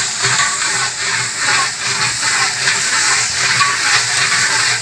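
Beef frying in hot oil and spice masala in a large metal degh over a wood fire: a steady, loud sizzle as it is stirred with a long iron spatula.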